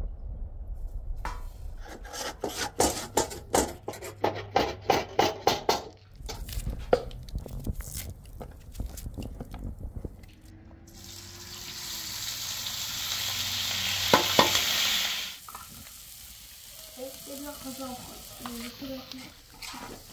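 Kitchen work at a wood fire. First comes a run of quick, even strokes, about three a second. Then food fries in a large pan with a sizzle that grows louder and stops suddenly, with one metal clank of a utensil in the middle of it.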